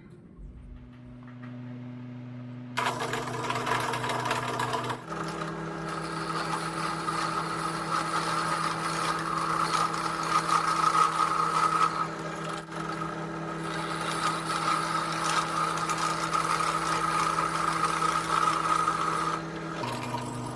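Electric power tool motor running steadily, with a rushing cutting noise joining about three seconds in and lasting until near the end. The motor's hum steps up in pitch about five seconds in and drops back near the end.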